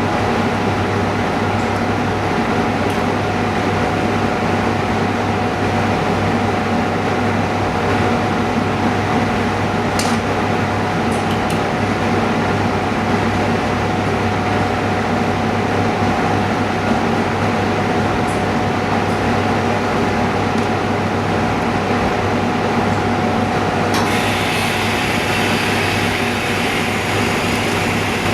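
Steady mechanical hum of running machinery, with a constant tone and a few faint clicks. Near the end a louder hiss joins in suddenly.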